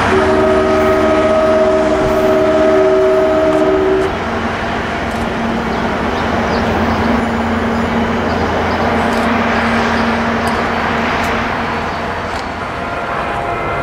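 NJ Transit diesel commuter train's air horn sounding a chord of several notes together for about four seconds, then cutting off, leaving the steady rumble of the train moving away on the rails.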